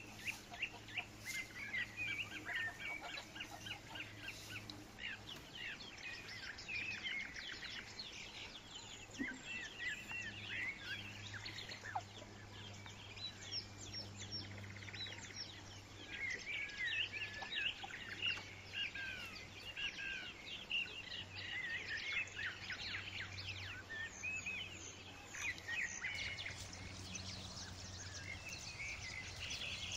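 Many small birds chirping and chattering, their short calls overlapping almost throughout, over a steady low hum.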